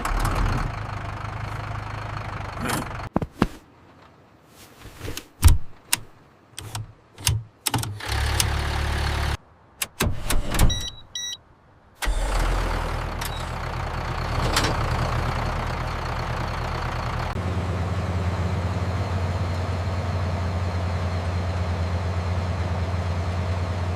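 A corn harvester's engine being started: a brief hum, then a string of sharp knocks and short bursts of running, with a few short beeps in between. About halfway through the engine catches and runs with a steady low hum.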